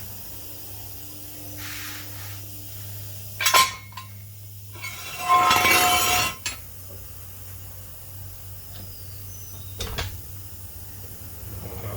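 Hard metal objects clanking. There is a sharp ringing clink about three and a half seconds in, then a longer, louder metallic rattle and scrape around five to six seconds, and a lighter knock near ten seconds, all over a steady low hum.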